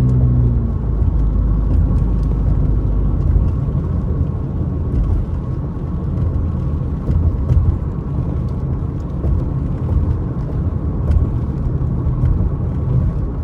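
Heavy rain falling steadily, with scattered sharp drop taps over a low rumble. A low steady hum cuts off about a second in.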